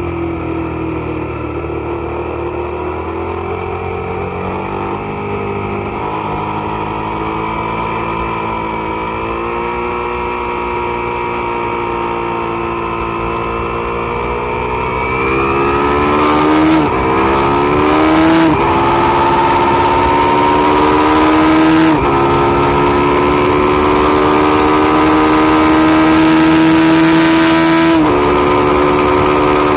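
Suzuki SV650 V-twin engine accelerating hard. The engine note climbs slowly at first, then faster from about halfway, dropping sharply four times as the rider shifts up through the gears.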